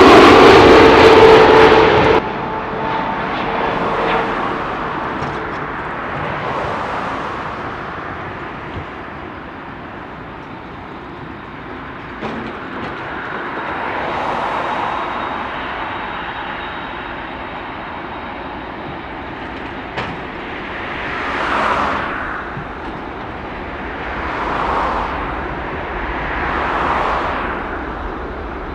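Boeing 747-8F freighter's GEnx jet engines running loud, a rushing roar with a steady whine, cut off abruptly about two seconds in. Then much quieter noise rises and falls in several slow swells, like distant aircraft or traffic passing.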